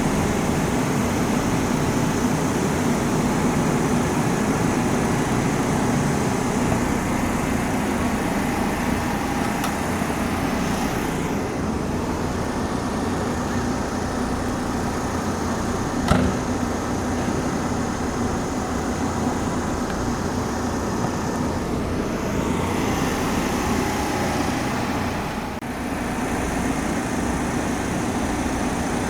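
Steady running noise of a Kintetsu electric train at a station platform, with a single sharp click about sixteen seconds in.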